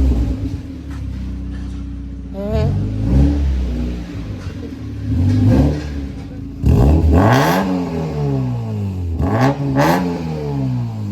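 Mazda MX-5 four-cylinder engine revved through a newly fitted aftermarket exhaust: several throttle blips that rise and fall back to idle, the biggest a little past halfway.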